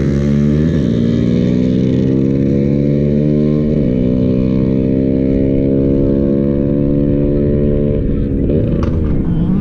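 Motorcycle engine at full throttle during a drag-race run, its pitch held high with brief dips at gear changes about a second in, around four seconds in, and again near the end.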